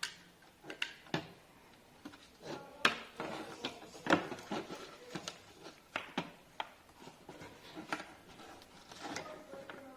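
Irregular knocks and clicks of hard objects being handled, the loudest about three and four seconds in.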